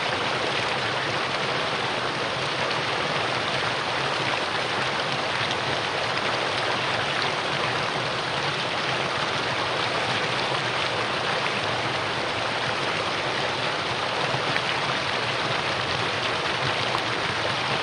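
Mountain stream running over rocks in a valley: a steady, even rush of water.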